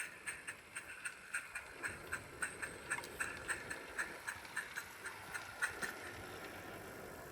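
Live-steam 7/8-inch scale model locomotive running under steam, its exhaust beating through a Summerlands Chuffer in an even chuff about three or four times a second. The beats stop about six seconds in, leaving a steady hiss.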